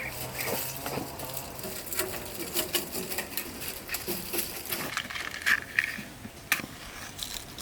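Dry corn leaves and husks rustling and crackling as corn is handled, with irregular sharp snaps and clicks.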